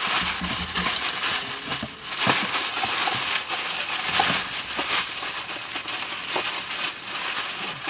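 Takeout packaging rustling and crinkling as someone rummages through it for plastic utensils, with a few light clicks and knocks.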